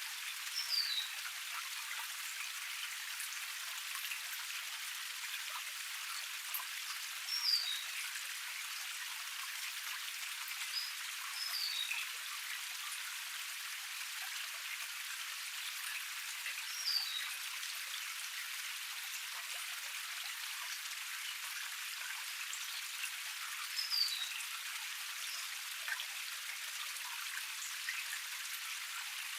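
Small forest cascade splashing steadily: an even hiss of water with no low rumble. A bird repeats a short, high, falling call five times, several seconds apart.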